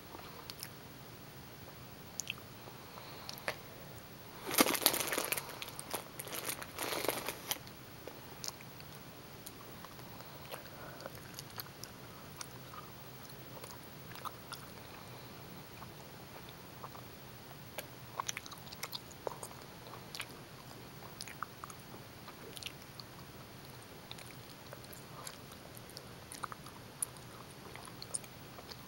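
Close-miked chewing of gummy bears: soft, sticky mouth clicks and smacks. A louder, busier stretch of noise comes about five to seven seconds in.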